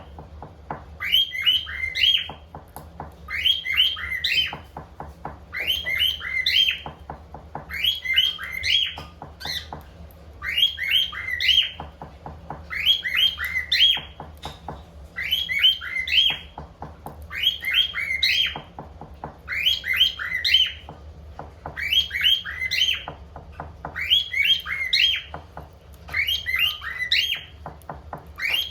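Cockatiel song: the same short phrase of chirping whistles repeated about every two seconds, evenly spaced and near-identical each time.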